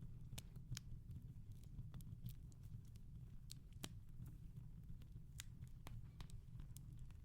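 Wood fire in a fireplace crackling softly: irregular sharp pops and snaps, several a second, over a low steady rumble.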